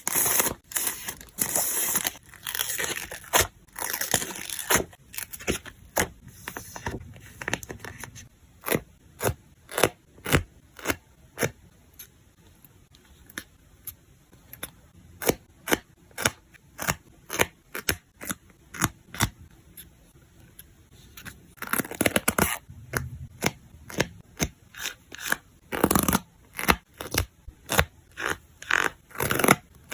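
Hands handling paper, stickers and small craft pieces for a journal page: many sharp clicks and taps, with stretches of crinkly tearing and peeling in the first few seconds and again about two-thirds of the way through.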